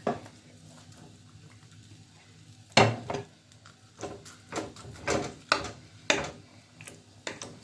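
Dishes and utensils knocking and clinking while food is served: one sharp knock a little under three seconds in, then a run of lighter clinks and knocks about every half second.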